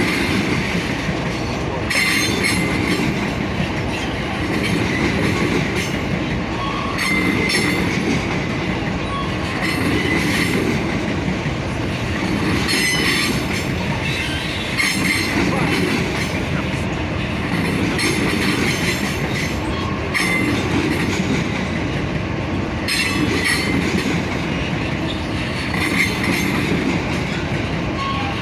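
Freight train wagons rolling past on the rails: a steady rumble and rattle, with a brief clatter and wheel squeal every two to three seconds.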